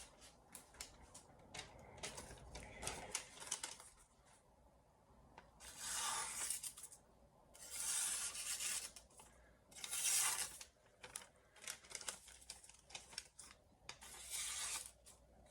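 Freshly sharpened santoku knife slicing through paper in about four separate strokes, each a short hissy slice, with small ticks and rustles of the paper between them. The clean slicing shows a sharp edge straight off a 1000-grit stone, before any stropping.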